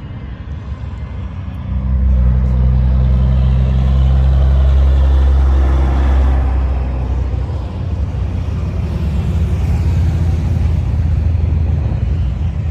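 Street traffic: motor vehicle engines running close by with a low, steady hum. The engine noise swells about two seconds in, stays loudest for several seconds, then eases off a little but keeps going.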